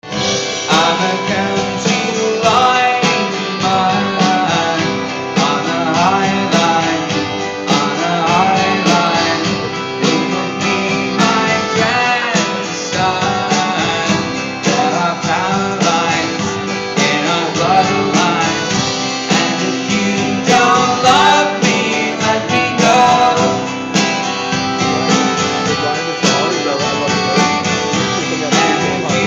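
Folk-rock band playing live, acoustic guitar to the fore, heard through a phone recording with the treble cut off.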